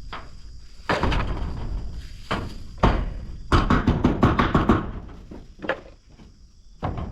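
A series of knocks and thuds with rough scraping noise between them, loudest in a quick run of knocks around the middle.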